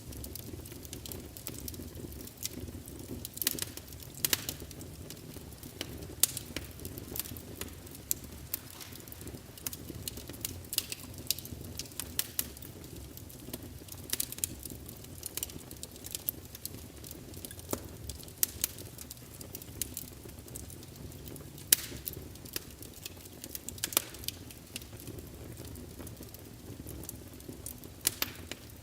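Wood fire burning in a fireplace: logs crackling with irregular sharp snaps and a few louder pops over a low, steady roar of flame.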